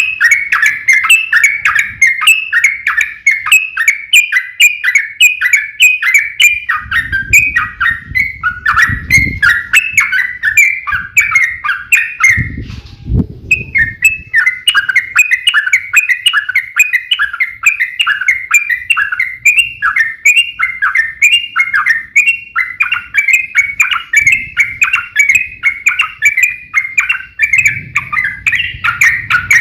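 Yellow-vented bulbuls (trucukan) singing in a long, fast, unbroken run of short repeated chattering notes. The song breaks off briefly about 13 seconds in, and a low rumble sounds underneath a few times.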